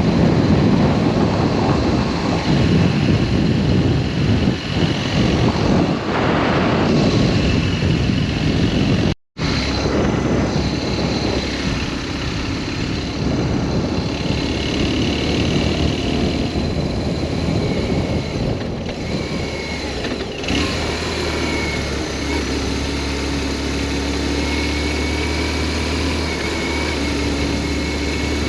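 BMW R1200S flat-twin engine running on the move, mixed with heavy wind noise. The sound drops out for a split second about nine seconds in, then the engine goes on steadier, its pitch shifting around twenty seconds in.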